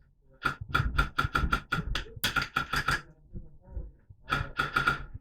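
Airsoft rifle firing a rapid string of shots, about six a second, then a second shorter string about four seconds in.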